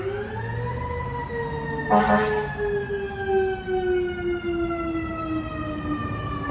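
A fire truck's mechanical siren peaks about a second in and then slowly winds down in pitch. A short, loud horn blast sounds about two seconds in.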